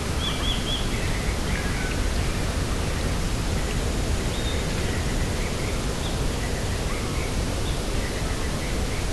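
Steady rush of wind, with faint, short high chirps of small birds scattered through it, three quick notes near the start.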